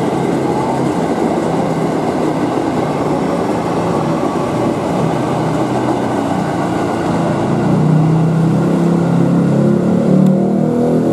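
Electric multiple-unit commuter train running, a steady rumble of wheels and running gear. About eight seconds in, a low motor hum grows louder.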